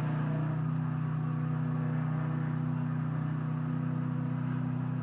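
Homemade swing blade sawmill running, its engine and belt-driven blade giving a steady, even drone.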